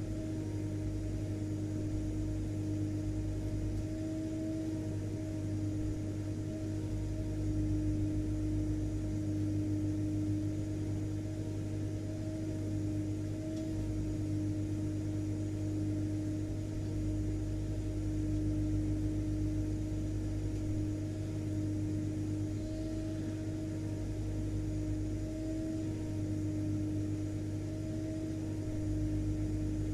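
Vacuum cleaner running steadily, a constant motor hum with a high steady whine.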